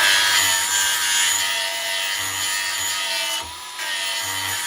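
A small electric blade sharpener running at a steady pitch while it grinds the edge of a steel lawn tractor mower blade, a grinding hiss over the motor's whine. The grinding eases briefly about three and a half seconds in, then carries on.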